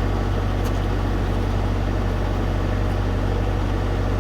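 Diesel tractor engine running steadily with a constant low drone.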